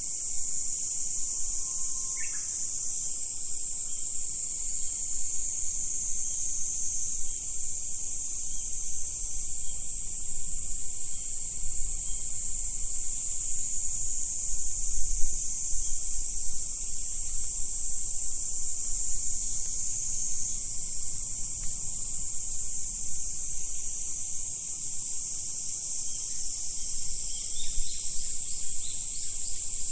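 A steady, high-pitched chorus of insects with no break, with a few brief bird calls about two seconds in and again near the end.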